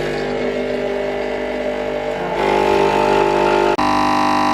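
Newly set-up coffee machine running as it makes a coffee: a loud, steady mechanical hum that shifts to a new pitch about two and a half seconds in and again nearer the end.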